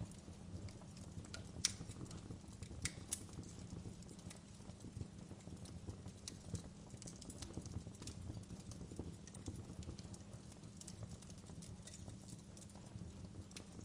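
Wood fire in a fireplace crackling, with irregular sharp pops scattered over a low steady rumble; the loudest pops come about two and three seconds in.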